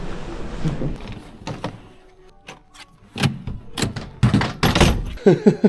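A run of sharp knocks and thuds, with a voice sliding in near the end.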